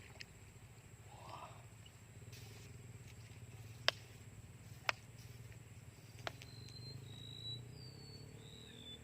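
Quiet outdoor ambience: a steady high insect-like drone over a low hum, a few sharp clicks in the middle, and short high whistled notes, like a small bird, in the second half.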